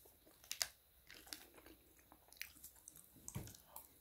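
A person chewing fast food close to the microphone: a faint scatter of crunches and mouth clicks, the sharpest about half a second in.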